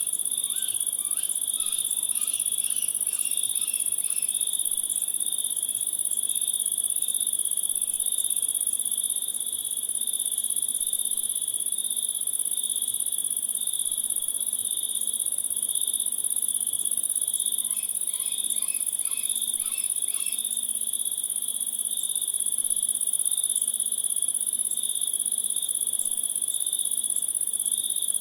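A steady chorus of crickets and other insects: a high continuous shrill over a lower, evenly pulsing trill. Brief faint chirps come in over it near the start and again about two-thirds of the way through.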